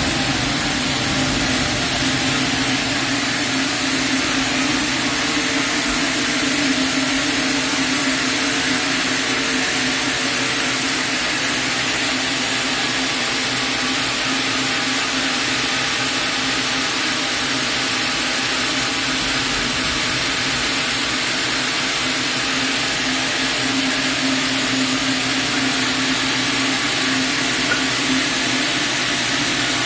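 Sawmill saw running steadily, a loud even machine noise with a low hum, likely cutting through a chinaberry log.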